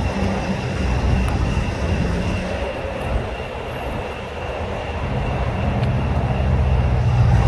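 Car engine idling with a deep, steady low rumble that eases off a little in the middle and then comes back fuller, with a thin high whine running above it.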